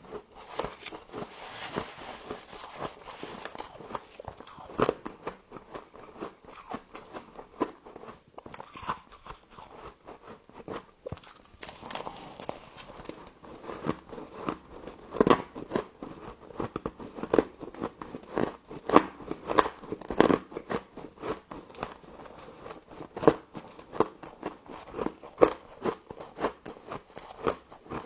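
A person biting and chewing frost, with dense, irregular crunching and crackling close to the microphone.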